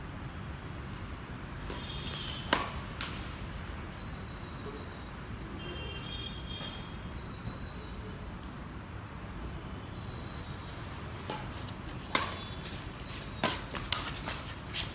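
Badminton racquets striking a shuttlecock: sharp cracks, one about two and a half seconds in, then several in quick succession near the end as a rally gets going. Short high squeaks come in between over a steady background hum.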